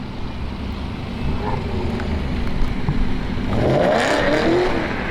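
Car engine running at idle, then revved briefly about three and a half seconds in, its pitch climbing and falling back.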